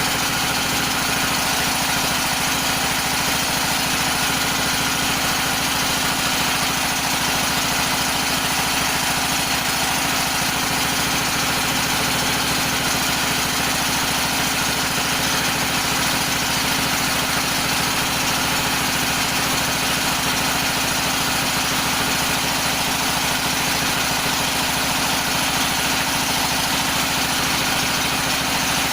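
Floating fish-feed pellet extruder machine running steadily, a constant even mechanical drone with no change in speed.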